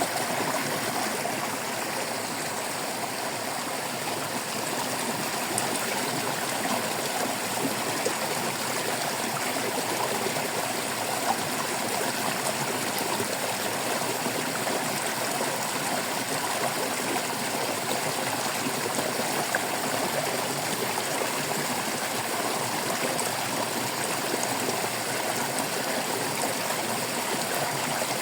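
A shallow stream of running water babbling and splashing steadily over stones.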